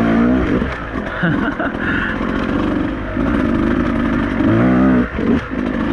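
Beta 200RR two-stroke enduro motorcycle engine being ridden on a trail, the revs rising and falling with the throttle, most sharply near the start and again about four to five seconds in.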